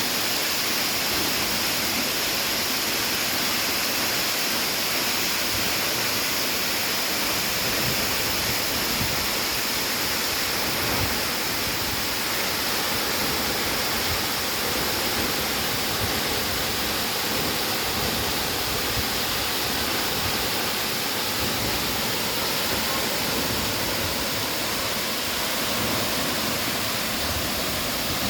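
The tall Materuni Waterfall pouring down, a steady, even rush of falling water with no break.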